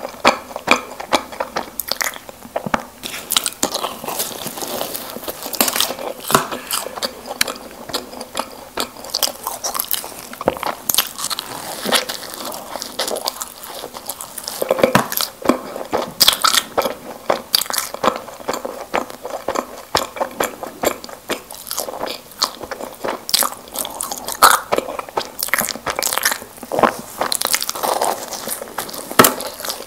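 Close-miked eating of Krispy Kreme doughnuts: soft bites and steady chewing with many sharp, sticky mouth clicks and smacks.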